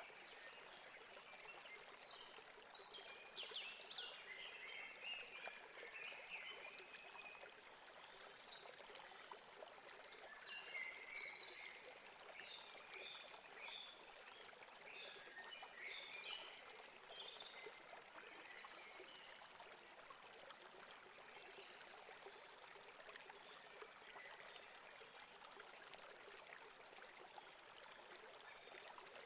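A river or stream flowing, a faint steady rush of water. Birds chirp here and there, mostly in the first half.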